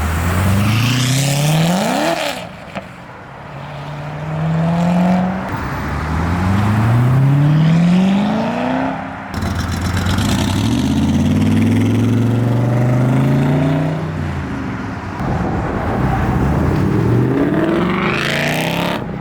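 Several performance cars accelerating hard one after another, their engines revving up in repeated rising sweeps as they shift up through the gears.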